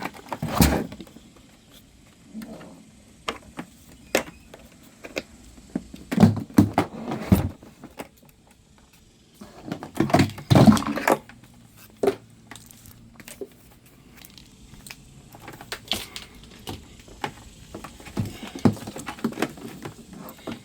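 Scattered knocks, clicks and rattles of things being handled, with the loudest clusters about half a second in, around six to seven seconds, and around ten to eleven seconds.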